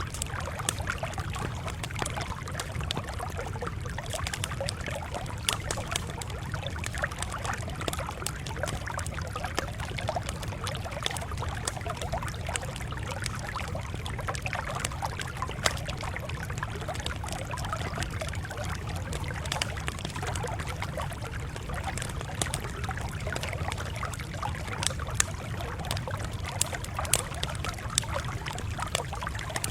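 Campfire crackling steadily, with frequent sharp pops over a constant low rumble.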